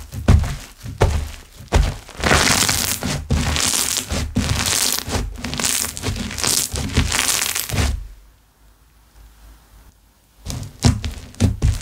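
Slime being worked by hand: sharp sticky clicks and pops, then about six seconds of dense crackling as air bubbles burst. It goes almost quiet for a couple of seconds near the end, then the clicking starts again.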